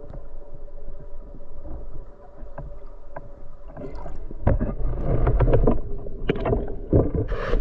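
Water noise with a low rumble and a faint steady hum, turning about halfway into louder rushing and sloshing with many sharp clicks and knocks.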